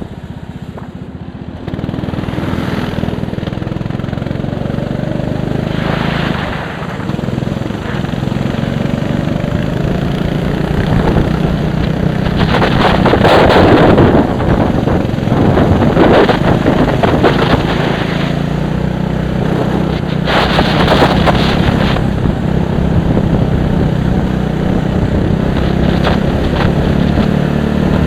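Racing vehicle's engine running under way, louder from about two seconds in, with wind buffeting the microphone in repeated gusts.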